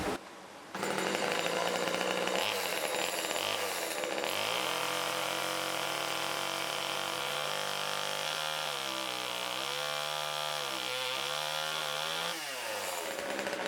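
Chainsaw engine running: its pitch climbs as it is revved about four seconds in, holds high, dips and recovers several times, then drops back near the end.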